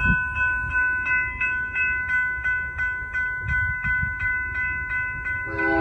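Railroad grade-crossing bells, newly installed, start ringing suddenly as the crossing activates, striking about three times a second. Near the end, a locomotive horn begins to sound.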